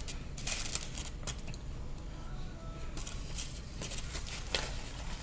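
Close-up eating sounds: chewing food, with a few short crisp crunches and clicks.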